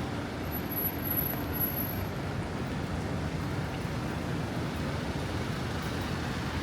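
Steady road traffic noise in a city street on a rainy day, a continuous rumble and wash of passing vehicles with no single event standing out.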